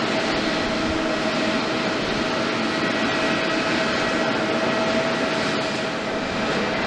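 Jet engines of a Boeing 777-300ER (GE90 turbofans) running steadily: an even jet roar with a held whine.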